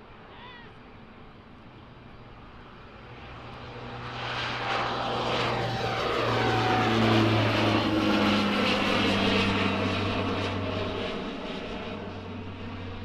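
Fixed-wing aircraft engines passing by on departure, swelling to a peak and fading away, with the engine tones sliding down in pitch as the aircraft goes past.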